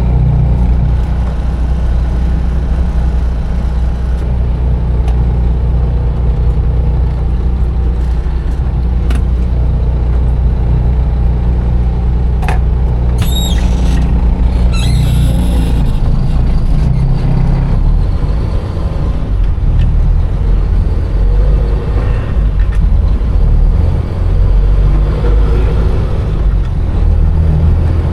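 Container truck's diesel engine rumbling steadily, heard from inside the cab, with a few short high squeaks around the middle.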